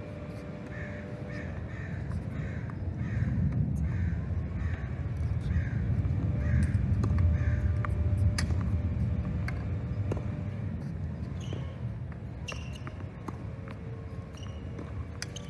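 A bird calling over and over, about two calls a second, stopping about seven seconds in. Beneath it a low rumble swells and fades, and a few sharp knocks come later.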